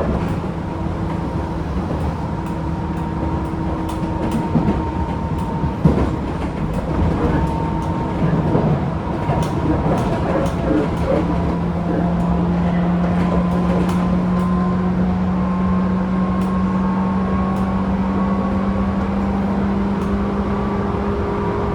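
A Tobu 10000-series electric train running, heard inside the motor car. The field-chopper-controlled traction motors hum steadily over wheel-and-rail rumble, with scattered light clicks. From about halfway through, the motor hum grows louder and rises slowly in pitch.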